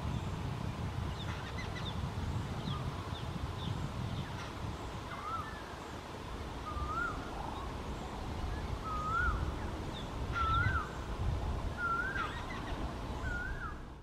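Birds calling: faint high chirps at first, then a bird repeats a short whistled note that rises and falls, six times over the second half at intervals of a second or two, growing louder. A low rumble runs underneath.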